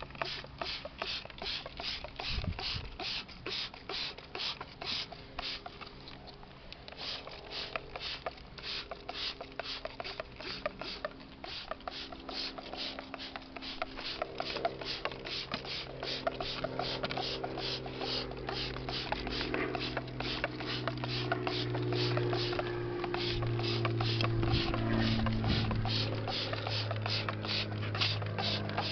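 Steady, rapid mechanical clicking, about three to four clicks a second, over a low hum that grows louder in the second half.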